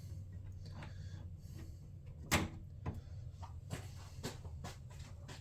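Scattered light clicks and knocks of plastic push-pin trim clips being worked loose with an Allen wrench, with one sharper click about two seconds in.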